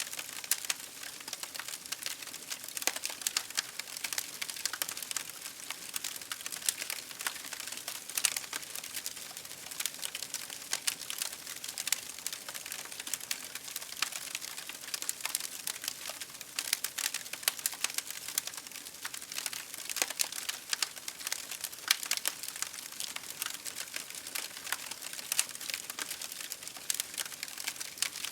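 Campfire crackling: a steady hiss of burning wood with dense, irregular sharp pops and snaps.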